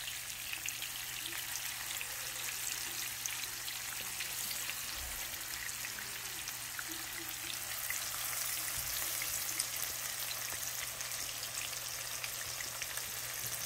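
Chicken patties frying in butter and olive oil in a skillet: a steady sizzle with many small crackling pops, a little louder about eight seconds in.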